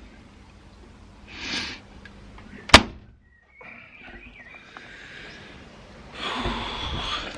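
A single sharp knock about three seconds in, with short rustling handling noises before it and a longer one near the end.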